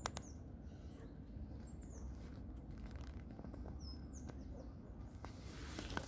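Several short, high bird chirps, faint, over a steady low rumble. Near the end, the rustle of footsteps through forest undergrowth.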